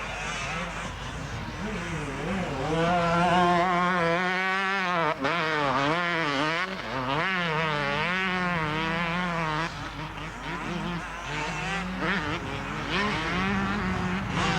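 Motocross motorcycle engine revving hard, its pitch rising and falling again and again as the rider works the throttle and gears, over the rougher din of other engines.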